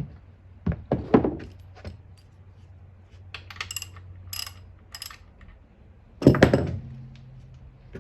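Tools and metal parts being handled: a few knocks, a run of light metallic clinks in the middle, then a louder thunk just after six seconds in.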